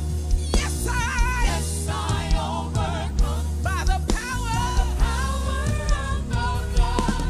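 Gospel praise song: a singer's voice with a wavering vibrato over steady bass and a drum beat.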